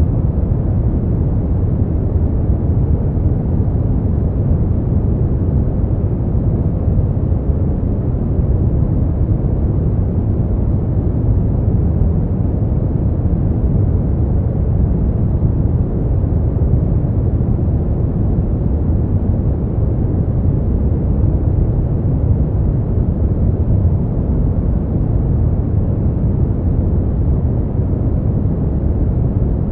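Steady noise track made for sleep and relaxation: a constant, deep, muffled rumbling hiss with most of its weight in the low end and little treble, unchanging throughout.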